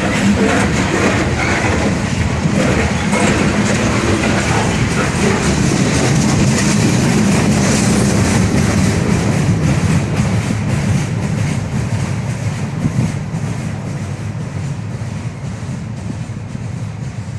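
Freight train cars rolling past with a steady rumble and wheels clicking over the rail joints. The sound fades over the last several seconds as the train moves away.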